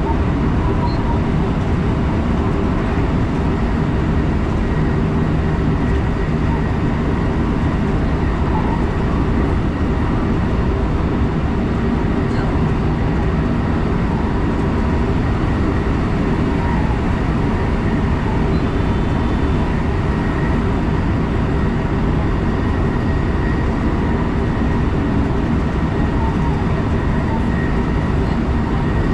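Electric train running steadily at speed, heard from inside the front passenger car: an even rumble of wheels on rail with faint steady whine tones.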